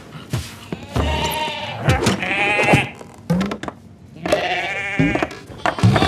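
Two long, wavering animal cries from a cartoon soundtrack, the first starting about a second in and the second near the end.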